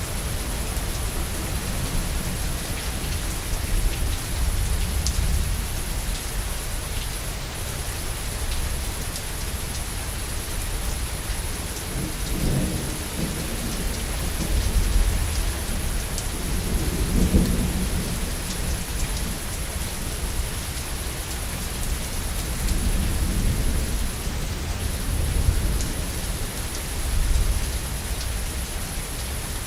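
Steady heavy rain hissing, with distant thunder rumbling low underneath. The thunder swells several times, first about twelve seconds in and again later.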